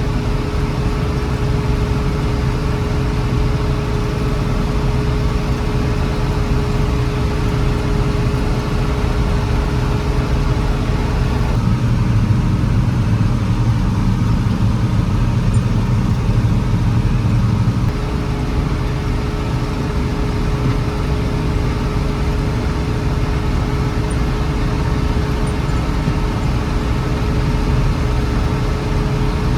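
John Deere 6600 combine running steadily, a loud low engine-and-machinery drone with a constant hum over it. About twelve seconds in the low drone swells and the hum drops out; some six seconds later the sound settles back.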